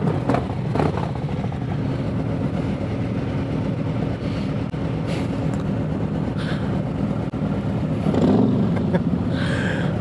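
Motorcycle engine idling steadily, with a couple of short knocks about a second in.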